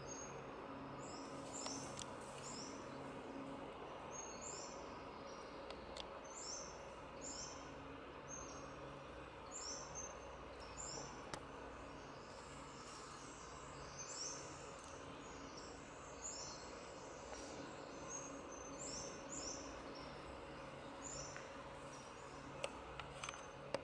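Faint outdoor ambience: short, high-pitched chirps, from a bird or insect, repeating in small groups about every second, over a low steady hum.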